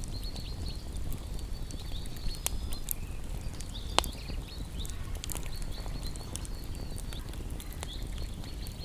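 Wood fire crackling over a low rumble of flame, with scattered sharp snaps and one loud pop about four seconds in. Small birds chirp in quick high repeated notes throughout.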